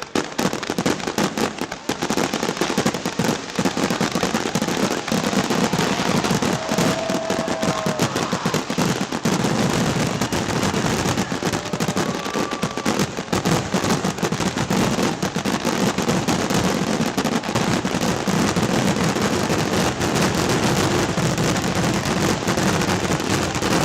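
A fireworks finale: a dense, continuous barrage of shells bursting and crackling, with bangs coming too fast to separate.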